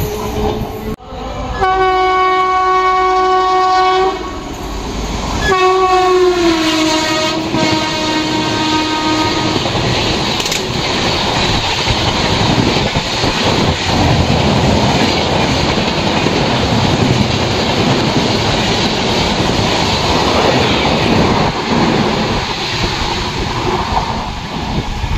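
Indian Railways express train sounding its horn twice: a steady blast of about two seconds, then a longer one that drops in pitch as the train comes past. After that comes the long, loud rush of the passenger coaches going by at speed, their wheels clattering over the rail joints.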